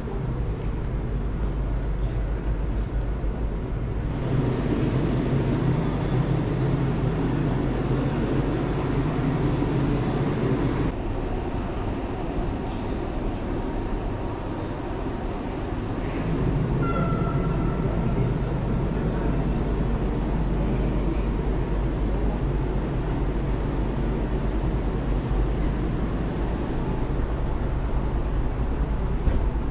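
Steady low rumble and hum of a passenger train standing at a station platform, swelling for long stretches, with a brief high tone about halfway through.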